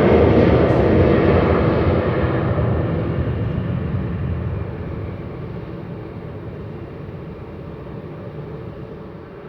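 Boeing 777 freighter's GE90 jet engines running at taxi power, a steady rushing noise that fades away steadily as the aircraft moves off past the microphone.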